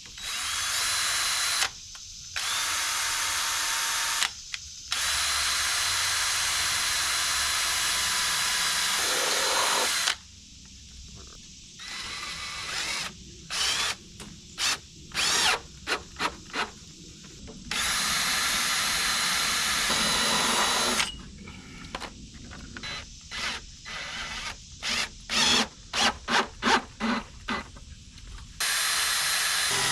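Power drill driving screws, in several runs of a few seconds each. Between the runs come quick bursts of short trigger pulls as screws are seated.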